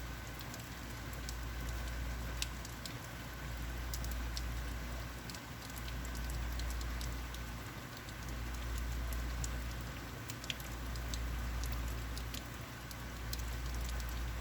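Heavy rain falling, a steady patter with many sharp drips. Under it a low rumble swells and fades every couple of seconds.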